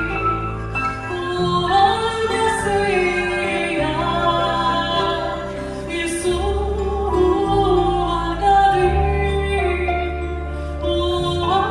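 Live music: voices singing a slow melody over sustained bass notes that change every second or two.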